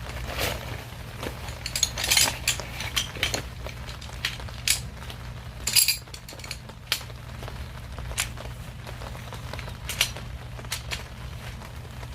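Irregular clinks and knocks of kitchenware being handled, a dozen or so sharp strikes with small clusters about two and six seconds in, over a steady low hum.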